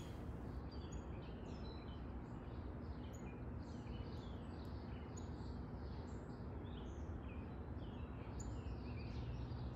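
Small birds chirping, many short calls in quick succession, over a steady low background rumble.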